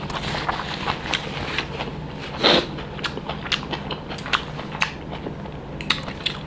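Close-up eating noises of a man chewing a mouthful of pork curry and rice: wet clicks and smacks of the mouth, with one short breathy sound about two and a half seconds in. A steady low hum runs underneath.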